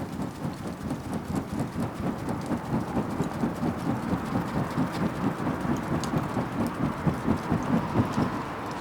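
Garden bonfire burning: sharp crackles over a low rumble that pulses about three times a second, growing louder, then stopping abruptly near the end.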